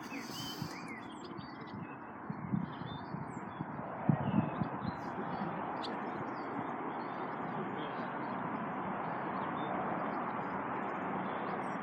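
Small birds chirping now and then over a steady outdoor background hiss. A few low bumps come about two and a half and four seconds in.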